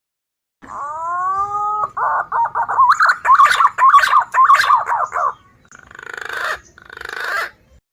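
Recorded green pigeon (punai) call played as a lure: a rising whistled note, then a run of quick warbling whistles, ending with two hoarse, rasping notes.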